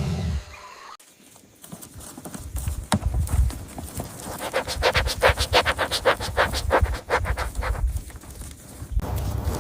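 Horse sounds: a run of quick, evenly spaced pulses, about four or five a second, lasting some three seconds in the middle, after a louder sound cuts off near the start.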